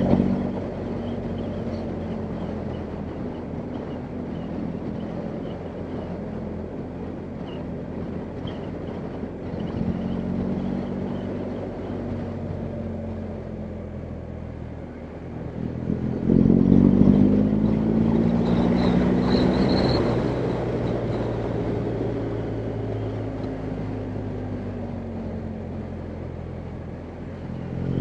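BMW R1250GS Adventure's boxer-twin engine running under a rider, mostly at steady low revs. The throttle opens around 10 s in and harder around 16 s in, the engine note rising and getting louder, then easing back down.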